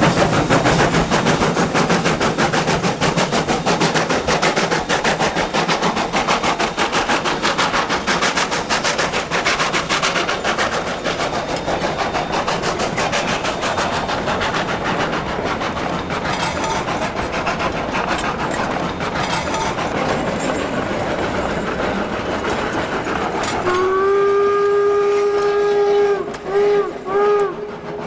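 2-8-0 steam locomotive #111 working hard, its exhaust beating in rapid, even chuffs that grow fainter. Near the end its steam whistle sounds a multi-tone chord, one long blast followed by short toots.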